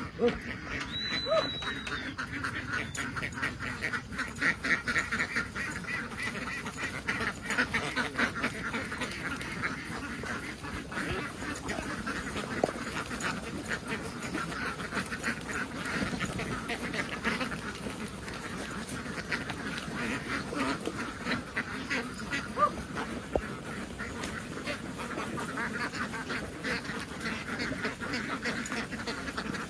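A large flock of domestic ducks quacking continuously, many calls overlapping into a dense chatter, with a short high whistle-like tone about a second in.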